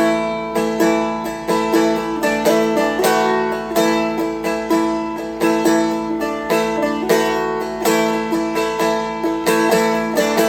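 Seagull Merlin M4, a four-string diatonic strumstick-style instrument, flatpicked: a melody of single picked notes over a steady ringing drone string, about two or three notes a second.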